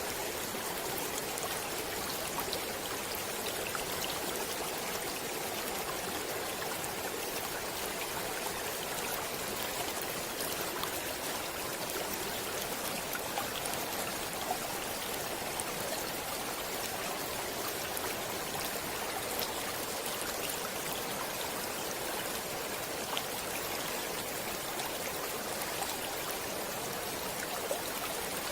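Water of a stream flowing steadily: an even rushing sound with small splashes scattered through it.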